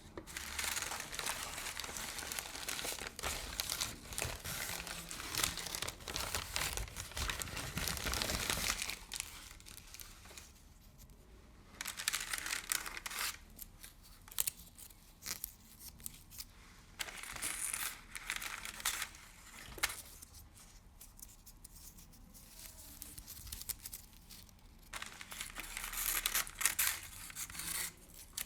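Close-up ASMR crinkling: hands crumpling and crinkling a crinkly material. A long dense spell for the first nine seconds or so, then shorter bursts with quieter gaps between them.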